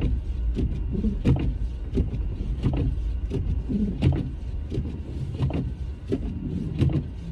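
Car interior noise while driving through a snowstorm: a steady low rumble from the engine and tyres, with irregular sharp knocks about once a second.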